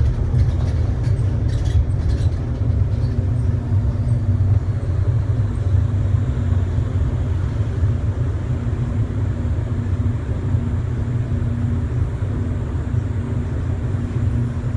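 Steady low rumble and hum inside an automated airport people-mover shuttle car, with a few faint clicks about one to two seconds in.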